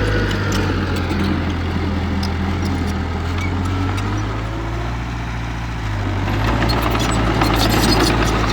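Diesel engine of heavy earthmoving machinery running steadily, with scattered clanks and clicks; it grows louder about six and a half seconds in.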